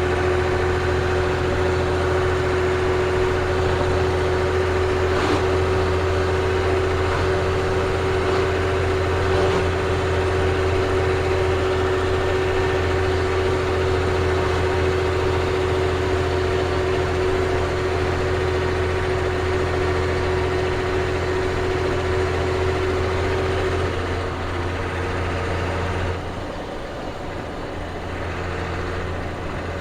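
Ford CF7000's 6.6L Brazil inline-six diesel heard from inside the cab while driving, a steady low drone with a steady whine on top. Near the end the whine fades, and a couple of seconds later the engine drone drops and gets quieter.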